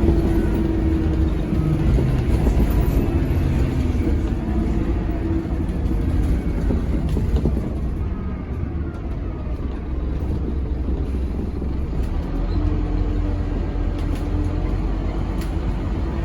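Scania K270UB tri-axle single-decker bus with ZF Ecomat automatic gearbox, its engine running with a steady low rumble as it drives. The engine note eases off around the middle, with faint rising and falling whines, then picks up again over the last few seconds.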